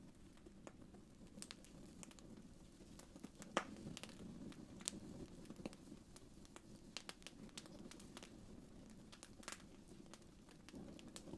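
Wood fire crackling softly in a fireplace: irregular small pops and snaps over a low steady rumble, with one sharper pop about three and a half seconds in.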